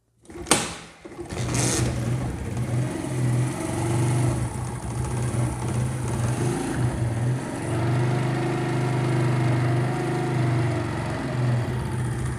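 Motorcycle engine, freshly rebuilt with a new piston and rings, started for the first time: a sharp click about half a second in, then the engine catches and runs, its level rising and falling.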